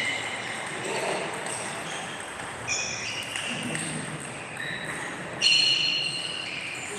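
Table tennis balls striking the table and bats, several sharp ringing pings at irregular intervals over a noisy background. The loudest hit comes about five and a half seconds in.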